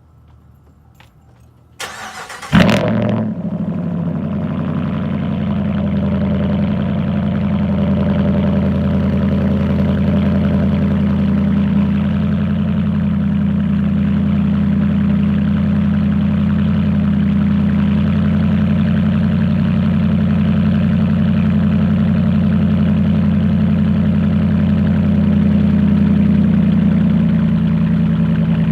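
2017 Ram 1500's 5.7 L Hemi V8 on an exhaust with no mufflers or resonators, cranked by the starter about two seconds in and catching with a brief loud flare. It then idles steadily and loudly.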